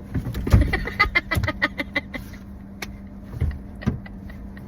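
A quick run of clicks and light knocks during the first two seconds, with a few soft low thumps, over a steady low hum.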